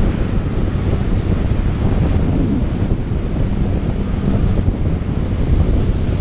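Steady wind rush buffeting the microphone on a moving motorcycle, with the engine running underneath.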